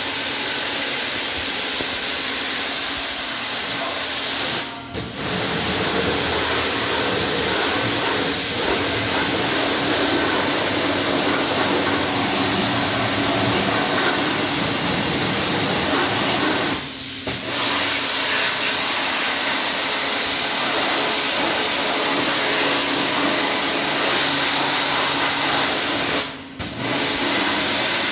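High-pressure washer jet spraying in a steady, loud hiss, with the pump's hum beneath it, stopping briefly three times.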